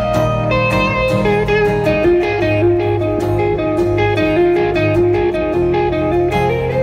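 Live rock band playing an instrumental passage: electric guitar carrying a stepping melodic line over bass and drums, with no vocals.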